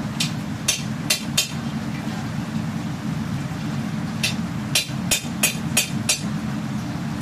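Hammer blows ringing on steel being forged on an anvil: four quick strikes, a pause of a couple of seconds, then six more at an even pace. A steady low hum runs underneath.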